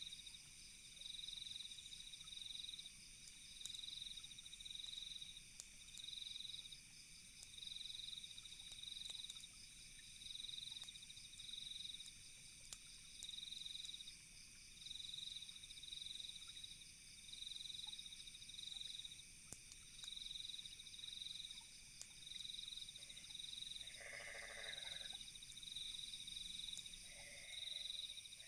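Crickets chirping in an even high-pitched pulse about once a second over a steady high hum of night insects, with faint crackles from a campfire. A frog croaks twice near the end.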